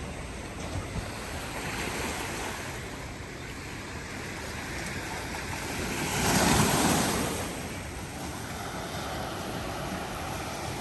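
Ocean waves washing in, a steady rush with one larger wave swelling up about six seconds in and dying away a second or so later.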